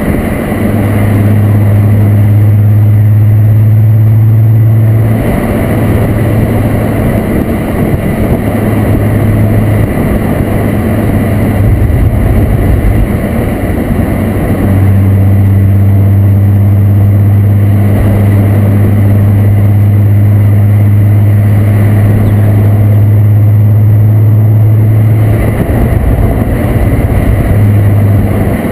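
Volkswagen Corrado's 24-valve VR6 engine running through a Techtonics Tuning exhaust while driving on the road, with a loud, steady low exhaust note. The steady note fades into rougher road and engine noise for several seconds, about five seconds in and again near the end.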